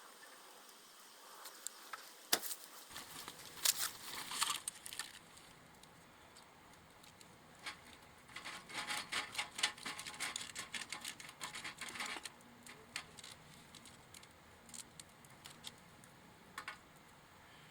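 Small wood fire crackling in a metal can stove: irregular sharp pops and clicks, with a dense run of crackling about eight seconds in that lasts several seconds, then only a few scattered pops.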